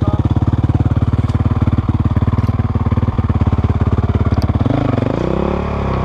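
Motorcycle engine running with a fast, even pulsing beat. Near the end, its pitch swings up and down as the throttle is worked, then holds at a higher speed.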